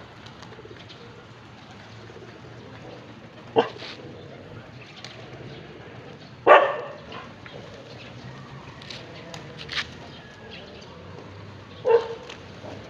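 Domestic pigeons in their loft, with a few short, sudden sounds; the loudest comes about halfway through.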